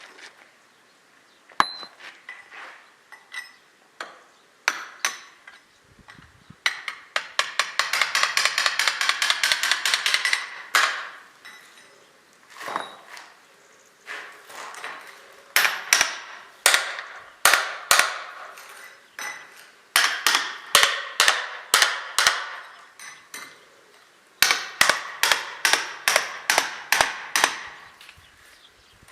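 Repeated hammer blows in bursts, some ringing: scattered single strikes, a fast flurry of blows for a few seconds, then runs of steady strikes about three a second.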